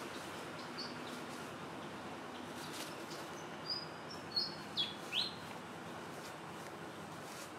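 A small bird chirping: a quick run of four or five short, high notes about halfway through, one sliding down in pitch and the last sliding up. Underneath is a steady low hum.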